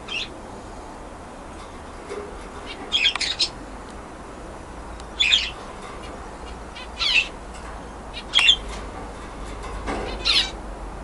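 Budgerigar giving short, sharp chirping calls, about six of them spaced a second or two apart.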